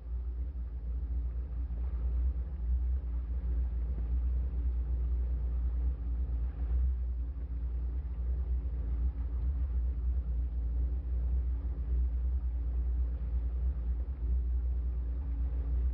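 Boat motor running steadily at trolling speed: a constant low rumble with a steady hum over it.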